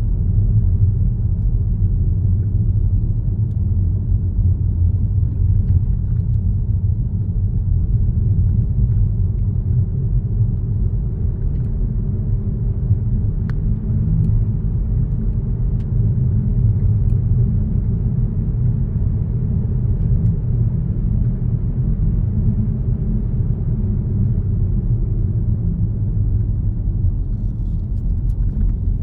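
A car driving at a steady speed: a steady low rumble of road and engine noise.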